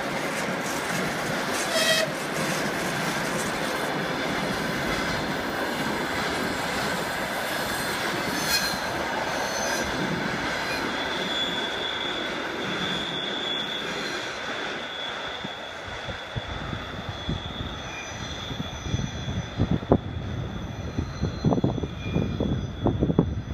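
ChS7 electric locomotive and its snow-clearing work train of flat wagons rolling past: a steady rumble and clatter of wheels on rail joints, with a thin high wheel squeal about halfway through. Past the midpoint the train noise fades as it draws away and irregular low buffeting from wind on the microphone takes over.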